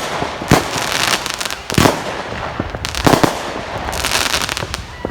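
Fireworks going off: several loud bangs about a second apart, with continuous crackling in between.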